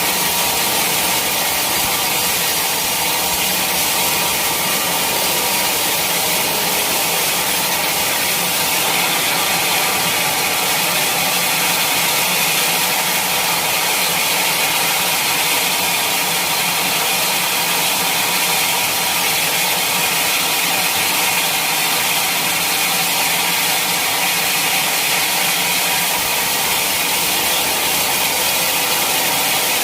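Sawmill blade cutting steadily through a teak log, a continuous even saw noise, mostly high-pitched, with the mill's motor running underneath.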